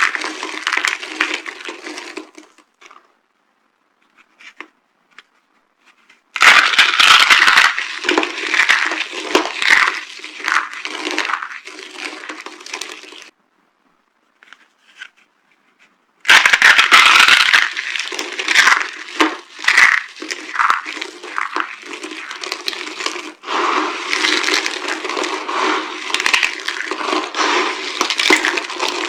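Dry soap being crushed, crunching and crackling in three spells, with two pauses of a few seconds between them.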